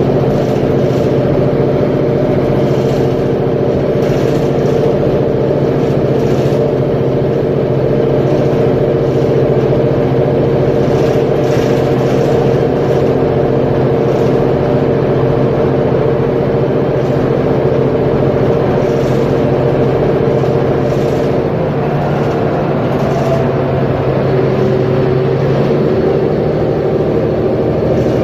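Mercedes-Benz Conecto G articulated bus's OM457LA inline-six diesel engine running steadily, its note shifting slightly about three-quarters of the way through.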